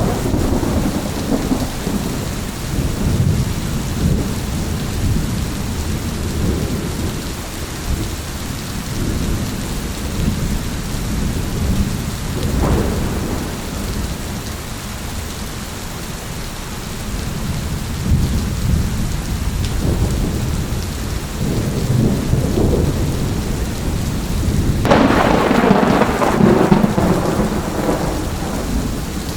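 Thunderstorm: steady rain hiss under continuous low rolling thunder, with a short crack about halfway through and a louder thunderclap rumbling for a few seconds near the end.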